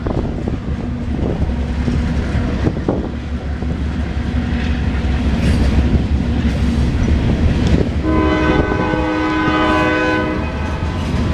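Freight train passing: diesel locomotive engines running low and steady with the rolling rumble of cars on the rails. About eight seconds in, a locomotive's air horn sounds one held chord for about two and a half seconds.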